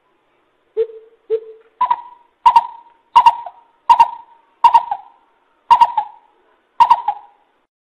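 Coucal (chim bìm bịp) calling, a series of deep hoots: three low hoots in the first second and a half, then six higher, louder hoots, spaced a little further apart toward the end.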